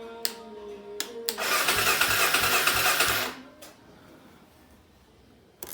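Music fades out, then a few sharp clicks and a loud burst of mechanical noise about two seconds long with a fast low pulsing, which cuts off suddenly.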